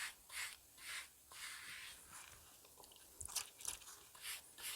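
A spatula scraping refractory mastic off a fireclay brick, in short repeated strokes about two or three a second, pausing briefly partway through.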